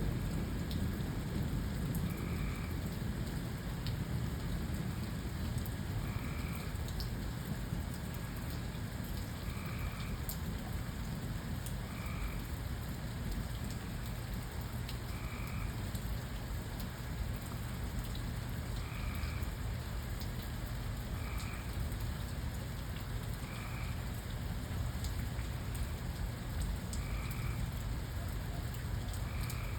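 Steady rain falling, over a low continuous rumble. A short two-toned call repeats about every two to three seconds throughout.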